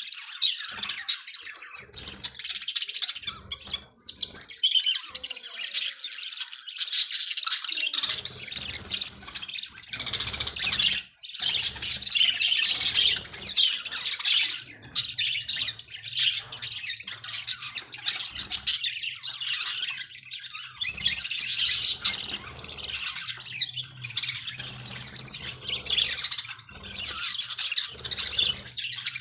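Budgerigars chattering: a steady stream of high chirps, warbles and squawks, with brief pauses.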